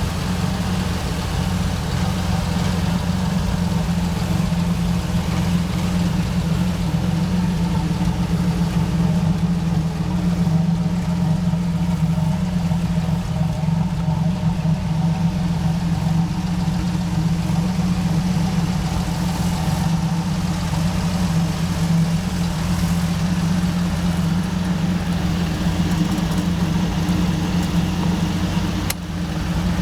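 A 1981 Pontiac V6 engine idling steadily, with an even, unchanging note. A short click near the end.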